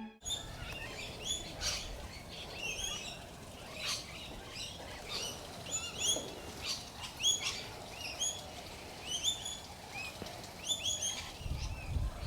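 Birds calling: many short, rising chirps repeated over and over, with a few brief clicks among them.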